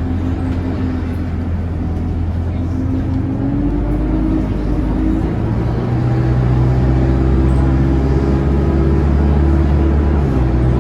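ADL Enviro 200 Dart single-decker bus's diesel engine running loud, a steady pitched drone. About halfway through it gets louder and its note changes, as with the engine pulling harder.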